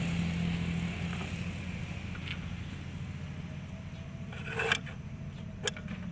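Steady low engine and road hum, as heard inside a moving car, with a few short clicks or knocks about four and a half and five and a half seconds in.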